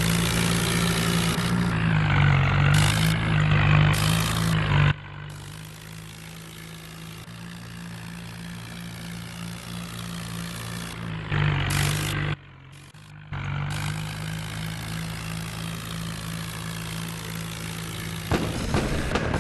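New Holland tractor's diesel engine running steadily, louder for the first few seconds and again briefly around twelve seconds, with sudden jumps in level.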